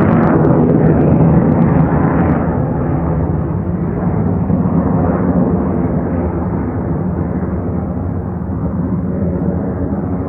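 Jet noise from an F-4EJ Kai Phantom's twin J79 turbojets, loudest at the start with some crackle, then fading gradually as the aircraft draws away.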